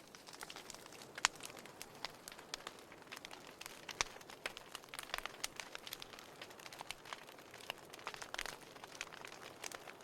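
Burning firewood crackling: irregular sharp pops and snaps over a soft hiss, with louder pops about a second in and at four seconds.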